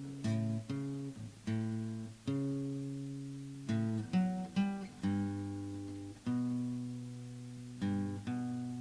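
Acoustic guitar playing chords, each struck and left to ring and fade before the next, at a slow, uneven pace with no singing.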